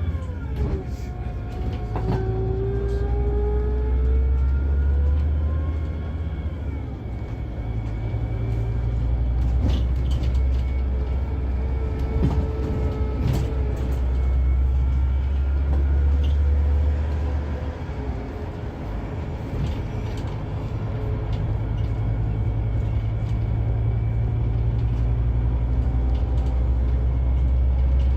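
Scania K360EB4 coach's engine and drivetrain running under way, a steady low drone with a whine above it. The whine drops sharply in pitch near the start, then climbs slowly as the coach pulls, with scattered light clicks and rattles.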